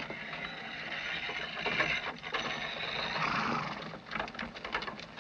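Horse-drawn wagon pulling away: a steady rattle of wheels and hooves that swells and then fades, with scattered clatter near the end.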